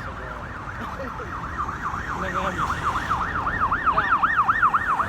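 Emergency vehicle siren in a fast yelp, its pitch sweeping up and down several times a second and growing louder toward the end.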